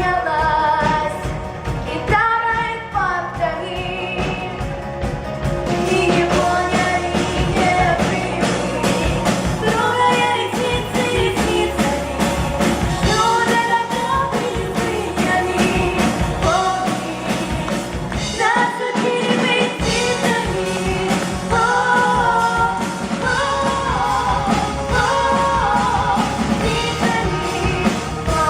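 A pop song: a sung melody over a full band backing.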